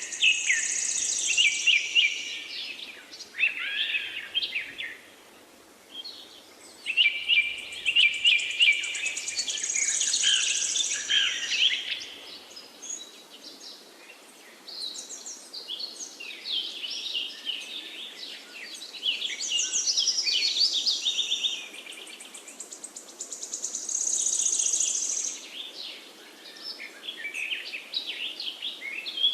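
Several forest songbirds singing in overlapping phrases of quick chirps, trills and high buzzy notes, with short lulls between phrases, over a faint steady background hiss.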